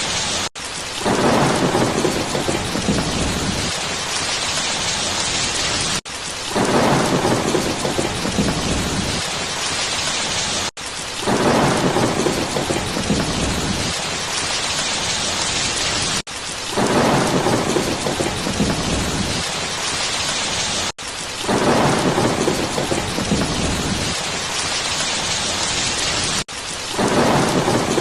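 Steady heavy rain hiss with low thunder rumbles swelling and fading. The same short stretch repeats about every five seconds, each time after a brief break in the sound.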